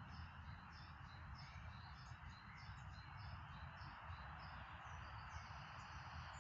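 Faint outdoor birdsong: a small bird repeating short high chirps, about three a second, over a low steady rumble.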